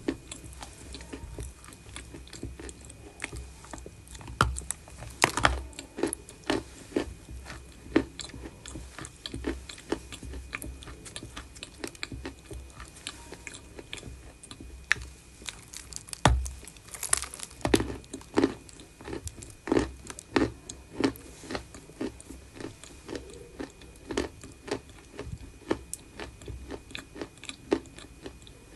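Someone biting and chewing pieces of chalk close to the microphone: a steady run of irregular, crisp crunches, with the loudest bites about five seconds in and again past the middle.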